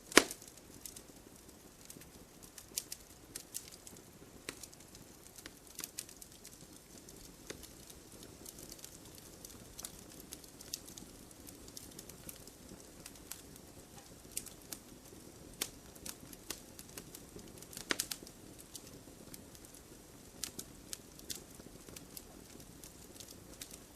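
Wood fire crackling in a fireplace: irregular pops and snaps over a soft steady hiss, with a loud pop just after the start and another about 18 seconds in.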